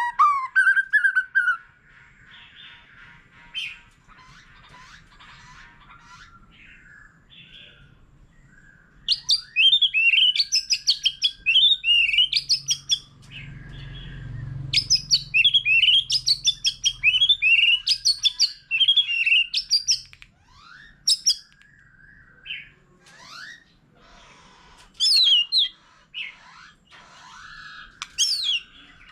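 White-rumped shama singing its varied song: rapid runs of rich, whistled notes in two long loud bursts, with shorter phrases between.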